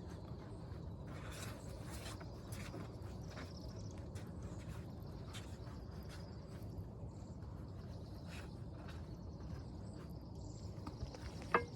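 Insects chirping at a high pitch over steady outdoor background noise, with scattered light scrapes and handling noises and one sharp click near the end.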